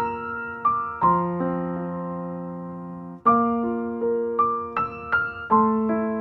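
Background piano music: a slow, gentle piece of single notes and chords struck and left to ring, with a long held chord in the middle that fades before the playing resumes.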